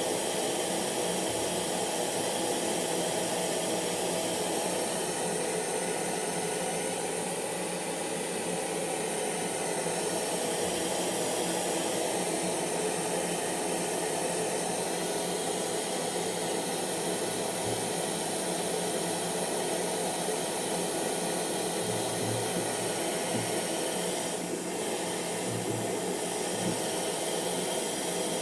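Hair dryer running steadily: a continuous blowing noise with a faint steady motor hum.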